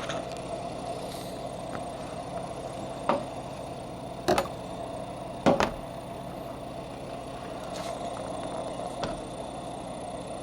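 Three sharp knocks of a knife striking a cutting board while cutting up a papaya, a little over a second apart, over a steady machine hum.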